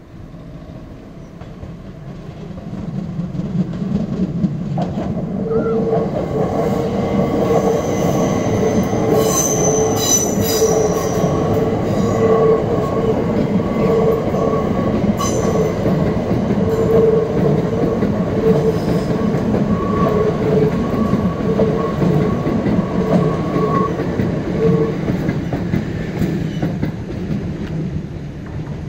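Southern Class 377 electric multiple unit passing close by, its wheels rumbling on the rails with a steady squeal from the wheel flanges on the tight curve. The sound builds over the first few seconds, with a few sharp clicks partway through, and dies away near the end.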